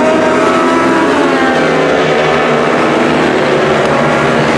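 Several racing engines running hard together, their overlapping notes rising and falling as a pack of race vehicles goes by. The sound cuts off suddenly at the end.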